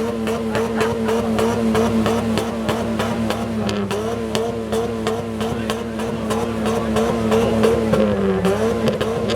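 Tuned Honda Civic's exhaust with the engine held at steady high revs, the pitch sagging briefly twice, during an exhaust-loudness test that reads 107.9 dB.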